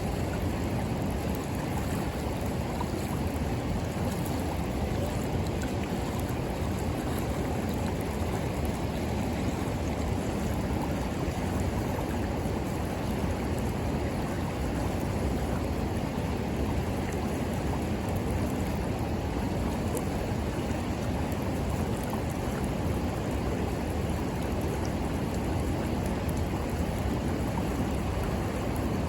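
River water flowing steadily, a continuous rushing noise, with a faint crackle from the bonfire now and then.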